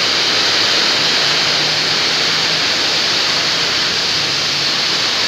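Heavy wind-driven rain pouring down in a steady, loud rush.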